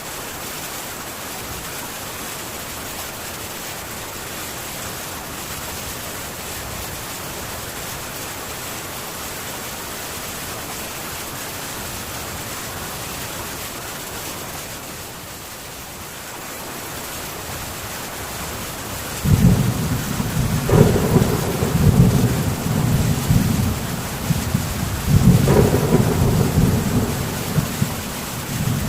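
Steady heavy rain falling on a metal tin roof. About two-thirds of the way in, a long rolling rumble of thunder comes in, louder than the rain, with two stronger peaks, and dies away near the end.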